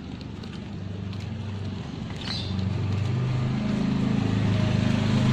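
An engine drawing nearer, its low drone growing steadily louder.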